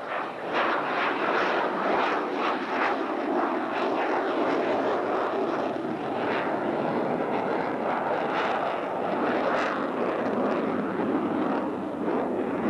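Jet aircraft of the Blue Angels flight demonstration team flying past, a steady, loud jet-engine roar.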